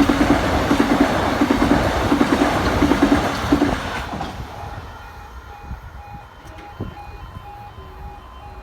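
A train runs through the level crossing, its wheels clattering loudly over the rails, then fades away about four seconds in. Under it the crossing's E2S alarm keeps sounding in an even on-off pulse, and a steady low hum starts near the end.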